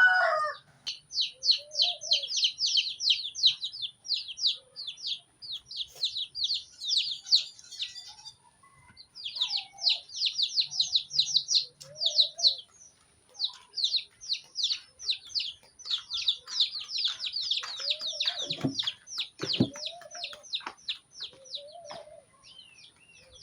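Young chickens peeping: rapid high-pitched peeps, several a second, in long runs broken by short pauses, with a few lower, softer calls between.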